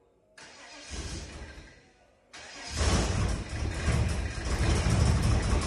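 The Holden VN Calais's Holley Sniper EFI engine firing up. A quieter stretch of engine noise and a short break come first, then about two and a half seconds in it catches and runs loud, with the level climbing. The exhaust goes through Varex mufflers with their valves closed.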